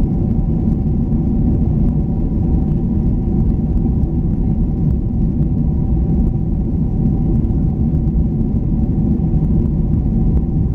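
Steady jet engine and airflow rumble heard inside an airliner's cabin in flight, deep and unbroken, with faint steady whining tones above it.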